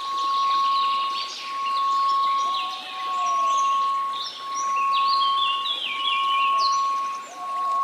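A steady 1098 Hz pure tone, swelling and dipping in loudness about every second and a half, over a faint hiss of white noise. Bird-like chirps and trills sound above it, with a short arching lower tone recurring a few times.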